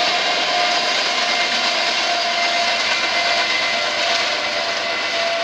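BNSF GE diesel locomotive and freight cars rolling past at a distance: a steady engine-and-wheel rush with a faint steady whine.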